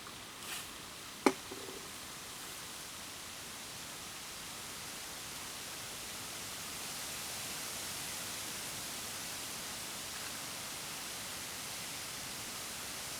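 Wood campfire burning with a steady hiss and one sharp crack about a second in.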